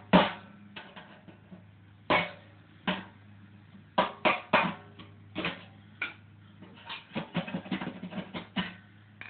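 Irregular sharp knocks and clinks from hand work on a lawn mower seat's broken bolt mount, in quick clusters in the second half, over a steady low hum.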